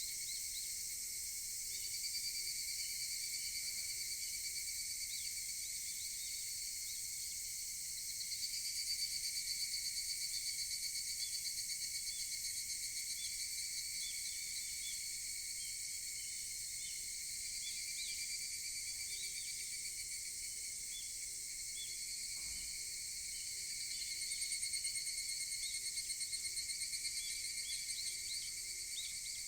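Evening cicadas (higurashi, Tanna japonensis) calling in chorus: high, rapidly pulsing calls that swell and fade in waves, loudest about a third of the way in and again near the end.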